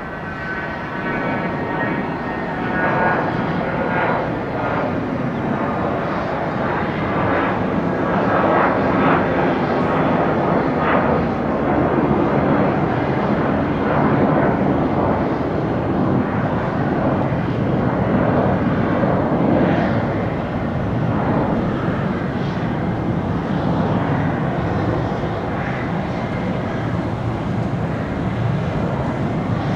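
Jet aircraft engines at takeoff power: a loud, steady rush and rumble that swells over the first few seconds and holds, with a high whine in the first couple of seconds that fades out.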